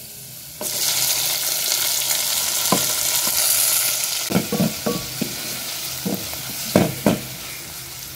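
Chopped green pepper tipped into onions frying in hot oil in an aluminium pan, setting off a loud sizzle about half a second in that carries on steadily. In the second half a stirring spoon knocks against the pan several times.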